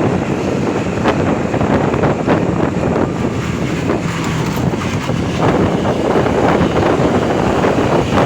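Steady noise of vehicles moving on the road, with wind buffeting the microphone and scattered short knocks.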